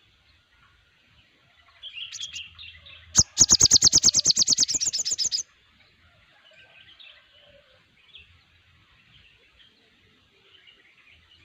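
Recorded chorus of songbirds chirping faintly throughout. From about three seconds in, one bird gives a loud, rapid rattling trill of about ten notes a second, lasting about two seconds.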